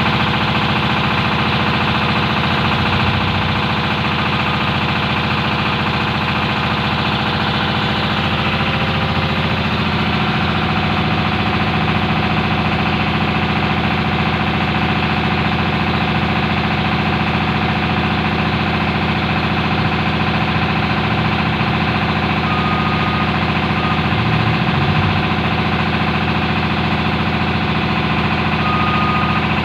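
Steady mechanical drone, engine-like, made of many steady tones, with a few short high beeps in the last third.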